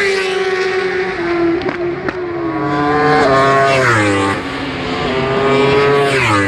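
Racing inline-four superbike engine at high revs, its pitch dropping in sudden steps as gears change and climbing again between them, most markedly in the middle and near the end.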